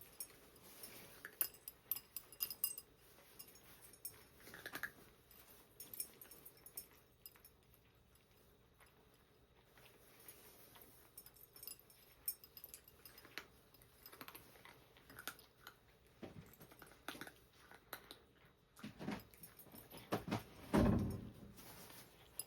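Cats eating, with many short clicky chewing sounds, followed by a couple of louder low bumps near the end.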